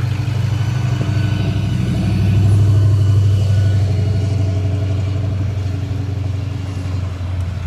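Car engines running as a line of vehicles passes close by, one swelling to its loudest about two to three seconds in and then fading.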